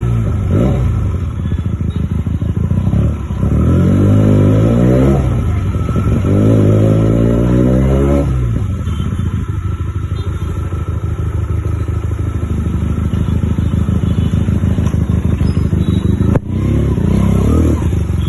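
Benelli TNT 300 parallel-twin engine with an Akrapovic aftermarket exhaust, revved several times with idling in between. There is a short blip, then two longer revs that climb and fall, a steady pulsing idle, a sharp click, and a final blip near the end.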